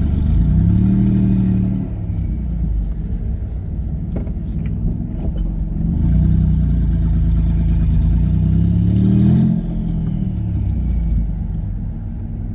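Twin-turbocharged V6 Mustang accelerating hard twice, the engine note rising with a turbo whistle over it. The throttle is lifted sharply at the end of each pull, and after the second the turbos are heard winding down.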